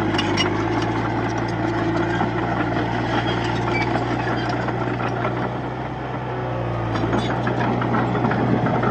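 Heavy diesel engine of a Komatsu D31-P bulldozer running steadily. It eases off briefly about six seconds in and picks up again, with a fast rattle near the start and again toward the end.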